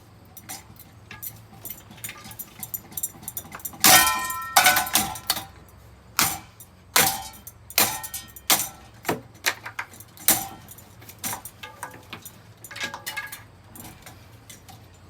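A ceiling fan being hit over and over, with sharp metal clanks and clattering. The loudest blow comes about four seconds in and rings on briefly with a metallic tone. A quick run of hits follows, then the blows thin out toward the end.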